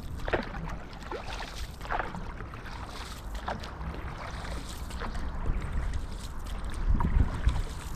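Canoe paddle strokes in the water, a short splash about every one and a half to two seconds, with wind rumbling on the microphone.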